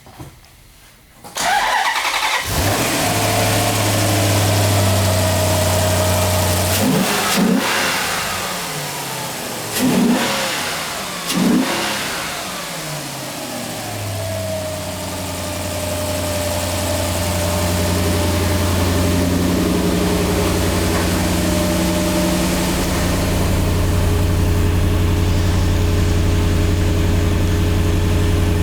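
A Maserati Quattroporte 4.2-litre V8 starts about a second in and settles into a fast idle. It is revved in three short blips between about seven and twelve seconds in, then idles steadily. This is a running test of a used engine with about 90,000 miles on it.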